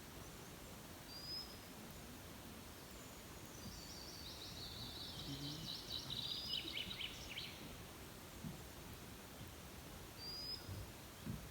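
A songbird singing a quick run of high notes that falls steadily in pitch over about four seconds in the middle, with a single short high chirp before and after it, over a steady outdoor hiss.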